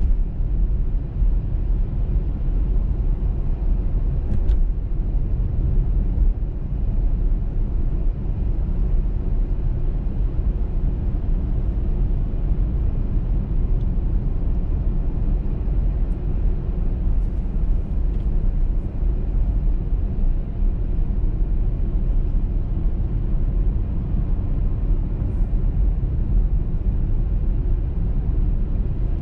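A car driving at steady speed on a snowy highway: a continuous low rumble of tyres and engine with no changes.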